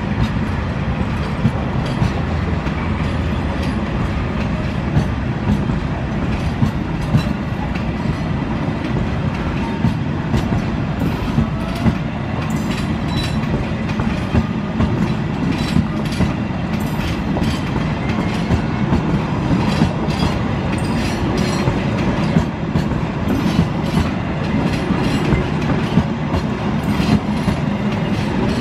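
Passenger coaches of an Indonesian long-distance train rolling past at close range. Their steel wheels clack steadily over the rail joints over a continuous low rumble.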